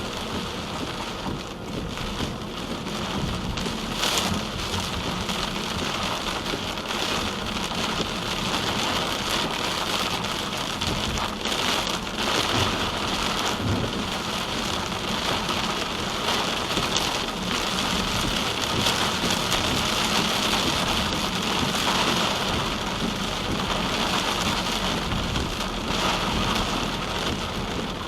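Steady rain hitting a moving car, a constant hiss with brief louder spatters now and then.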